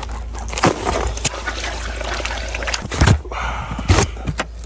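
Water sloshing and pouring, with a few dull knocks.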